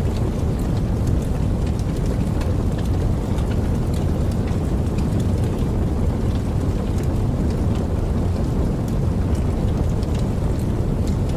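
Steady rainfall, a continuous heavy rush with faint scattered drop taps.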